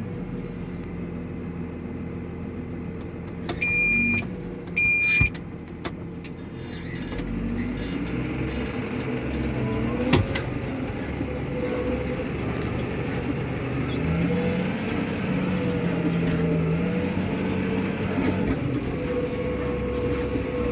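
New Holland T7 tractor engine running steadily under load, its pitch rising and falling a little at times. Two short high electronic beeps come about four and five seconds in.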